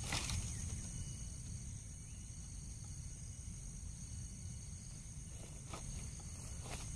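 Steady high-pitched insect chorus drones on without a break, over a low rumble, with a few faint knocks near the start and about six seconds in.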